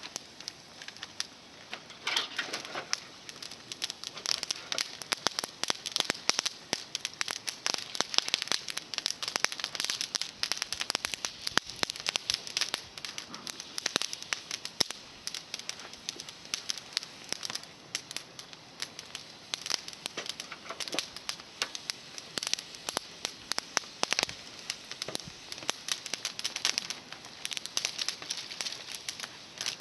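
Bonfire of climbing-rose twigs crackling, with many sharp, irregular pops and snaps.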